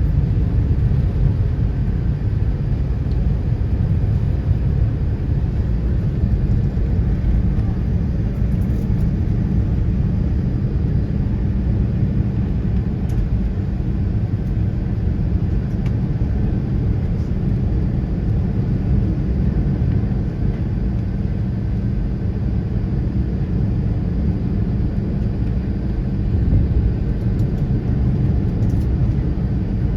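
Airbus A380 jet engines and airflow during takeoff, a steady low rumble that holds evenly without rising or falling.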